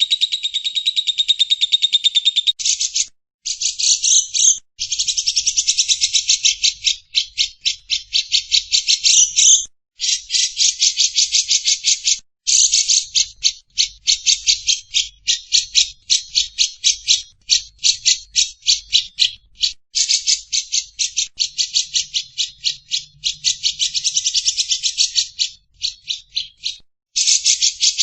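Lovebird chattering song (ngekek): long runs of rapid, high repeated notes, about ten a second, broken now and then by short pauses.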